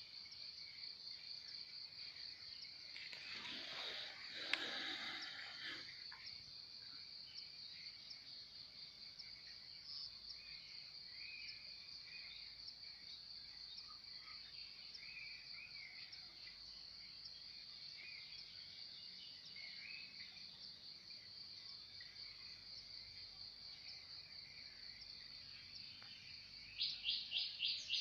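Outdoor morning ambience of a steady, high, evenly pulsing insect trill like crickets, with scattered soft bird chirps. A short rush of noise comes about four seconds in, and near the end a louder, rapid series of chirps begins.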